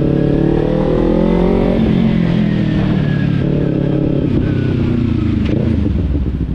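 Kawasaki Z300 parallel-twin engine running under way; the revs climb a little for about two seconds, then ease off steadily as the throttle is rolled back.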